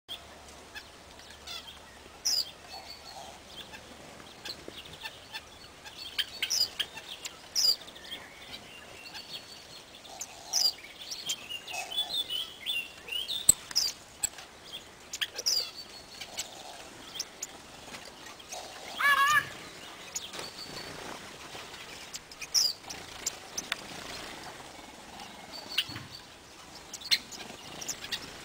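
Small aviary birds chirping and calling, with many short high chirps scattered throughout and a longer wavering call about two-thirds of the way through.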